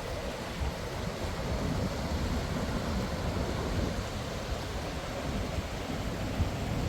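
A waterfall's steady rushing noise, even and unbroken, heaviest in the low rumble.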